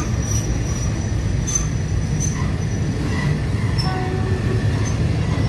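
A train running slowly over a steel truss railway bridge, heard from on board: a steady low rumble of wheels on rails, with faint high-pitched wheel squeals here and there.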